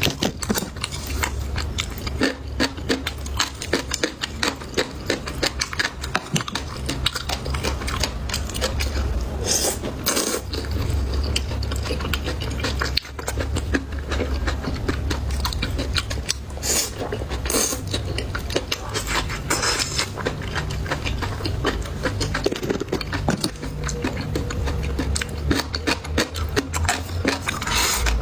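Close-miked chewing of crunchy food, a dense run of small wet clicks and crunches with a few louder crisp bites, over a steady low hum.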